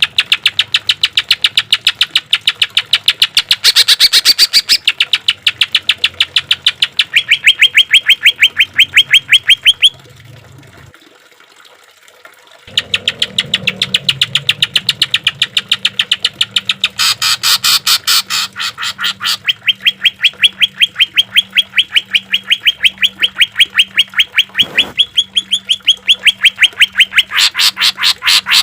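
Greater green leafbird (cucak ijo) singing fast strings of sharp repeated notes, about seven a second. It breaks off about ten seconds in and starts again after a pause of two to three seconds.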